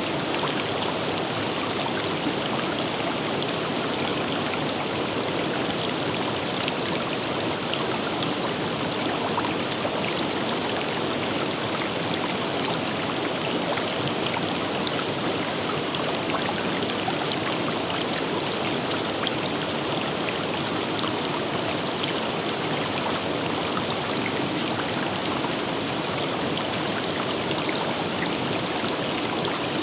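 River water rushing and burbling over rocks, a steady unbroken wash with small splashes scattered through it.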